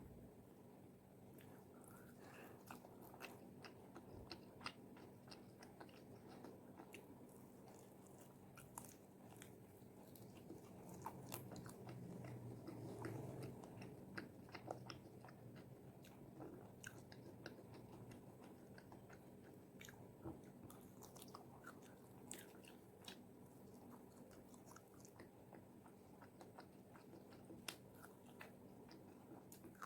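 Someone chewing fried chicken wings, with many small crisp crunches of the fried skin and soft chewing in between.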